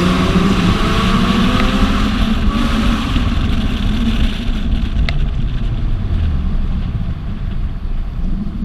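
Car engine and road noise while driving: the engine note climbs under acceleration in the first couple of seconds, then settles into a steady run that eases off near the end.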